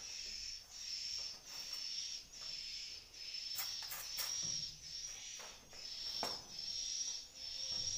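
Swiftlet calls: a high twittering chirp repeating very regularly, about once every 0.8 s, with a few sharp clicks around the middle.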